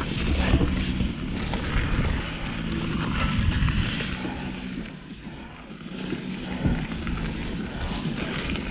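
Mountain bike ridden down a dirt trail, heard from a chest-mounted action camera: wind buffeting the microphone and tyres rolling over the ground, with scattered knocks and rattles from the bike. It eases off for a moment about five seconds in, then picks up again.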